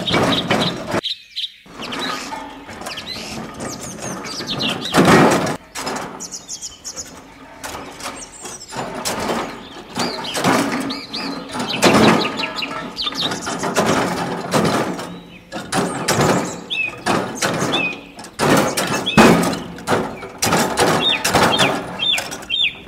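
Clicks and knocks of a small plastic toy wheelbarrow and miniature cement mixer being handled, with birds chirping in the background.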